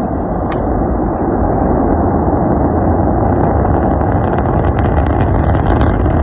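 Rocket engine roar: a loud, steady rumble, with crackling growing in from about halfway through.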